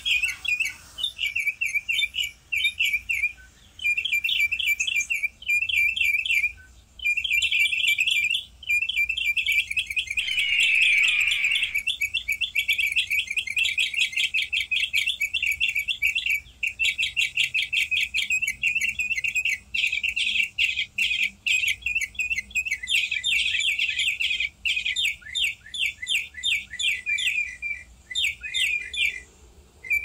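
Small birds chirping in fast, almost unbroken runs of short high notes, with a few brief pauses and one louder falling call about ten seconds in.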